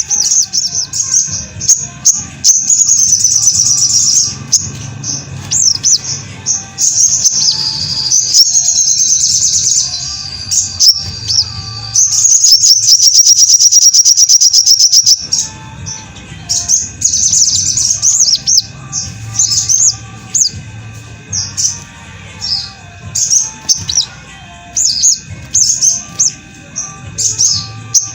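Sogon (sogok ontong) bird singing in quick runs of high, sharp chirps and trills. It holds one long, rapid, unbroken trill for about three seconds midway, over a faint low hum.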